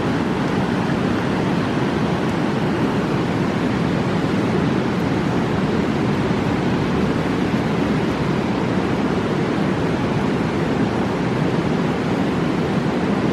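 A fast mountain river rushing over rocks, a steady, deep, unbroken roar of white water.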